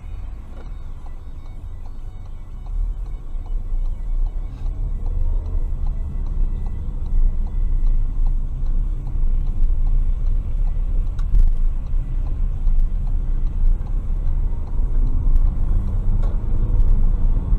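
Car on the move: a steady low rumble of engine and road noise that grows louder about three seconds in.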